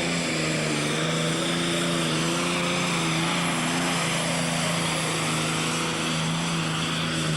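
Super Stock pulling tractor's diesel engine running with a steady, loud drone, its higher tones wavering slightly early on.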